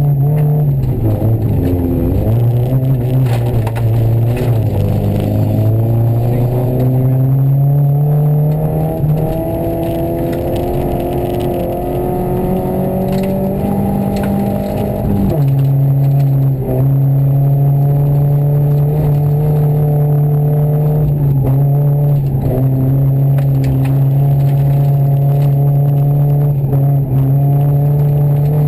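Rally car engine heard from inside the cabin while driving at speed. Its note rises for several seconds, drops abruptly about halfway through as the car shifts gear, then holds fairly steady.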